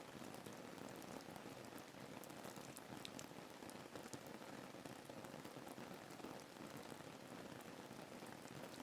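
Faint, steady rain ambience: an even patter of raindrops on a surface, with scattered light drip ticks.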